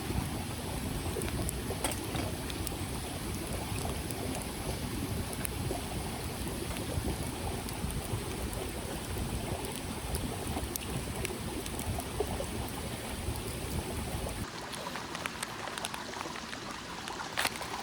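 Small mountain stream running, a steady rush of water with scattered light clicks. About fourteen seconds in, the sound cuts to a thinner, quieter rush, with a few sharp knocks near the end.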